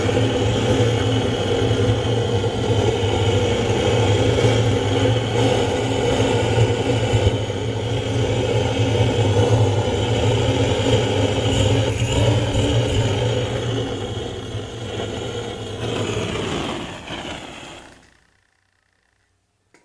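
Engine running steadily with a low hum, fading out about sixteen seconds in and gone by eighteen.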